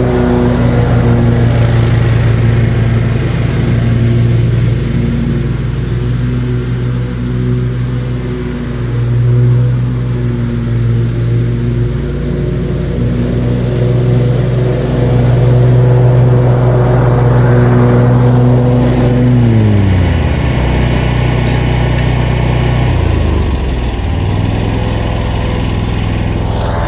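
Riding lawn mower engine running steadily under load, then dropping in pitch about two-thirds of the way through, dipping lower still and coming back up near the end.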